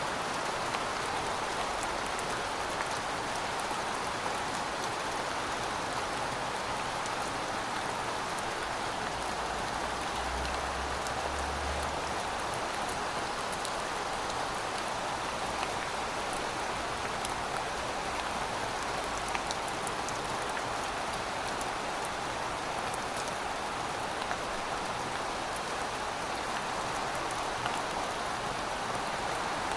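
Heavy rain falling steadily: a dense, even hiss with many fine drop ticks.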